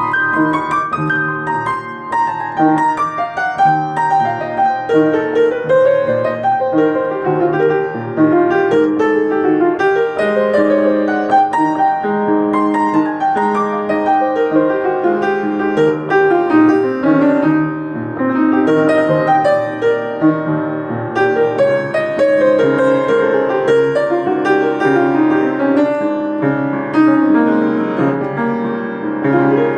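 Solo piano improvisation: many quick runs of notes over sustained low chords, played continuously.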